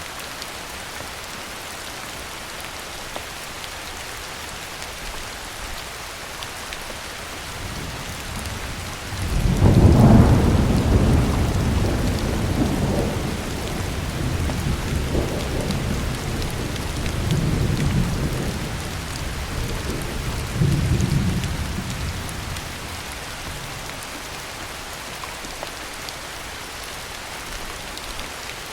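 Steady heavy rain with a long rumble of thunder. The thunder builds about a third of the way in, peaks sharply, then rolls on in several swells before fading away near the end.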